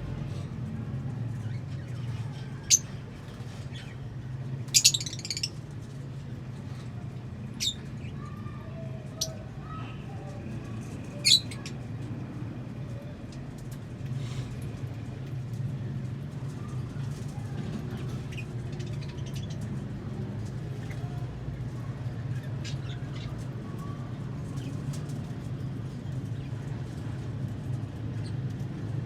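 Lovebirds giving short, shrill chirps and squawks, a handful of loud ones in the first dozen seconds and fainter ones after, over a steady low hum.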